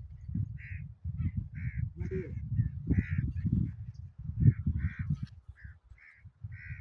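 A crow cawing over and over, short harsh calls about two a second, over an irregular low rumble.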